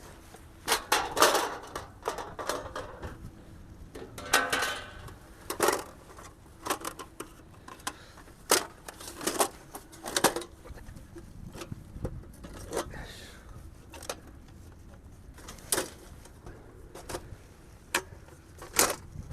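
Irregular clicks, knocks and rattles of hard objects being handled, a dozen or so scattered sharp sounds with quiet gaps between them.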